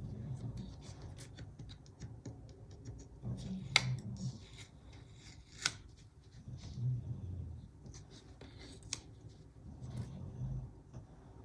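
Scissors snipping paper in many short cuts, with a few sharper, louder snips along the way.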